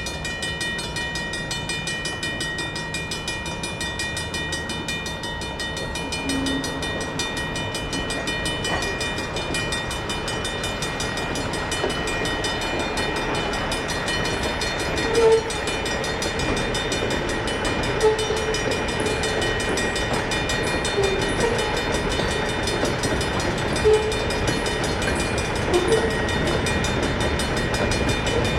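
Safetran mechanical crossing bell ringing with rapid, steady strokes, over the low rumble of a slow-moving freight train. From about halfway, a few short sharp knocks or squeals come from the rolling cars.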